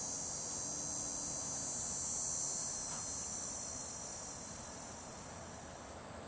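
Cicada calling: a steady, high buzzing drone that slowly fades away over the last few seconds.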